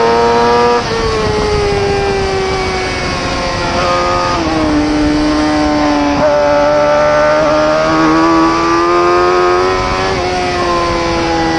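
Superbike racing motorcycle engine running hard at high revs. The note slides down and climbs back several times, with sudden steps about a second, four seconds, six seconds and ten seconds in, as the throttle opens and closes and gears change through the corners.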